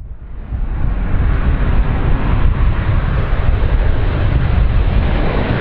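Large aircraft's engines running, a loud steady rumble with a rushing noise that rises in over the first second and then holds level.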